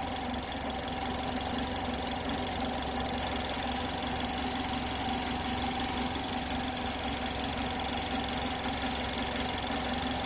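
2010 Chevrolet HHR's four-cylinder engine idling steadily while air is bled from its cooling system.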